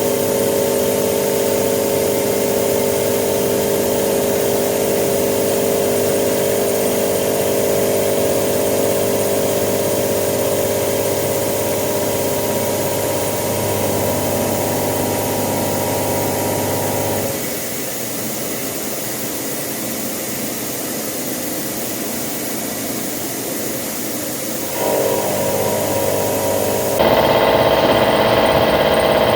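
Hitachi Seiki VM50 vertical CNC mill roughing a steel mold block with a 35 mm cutter at 1000 rpm: a steady machining drone with a constant hum of tones. The tones drop out and the sound goes quieter about two-thirds of the way through, then return. The sound changes abruptly near the end.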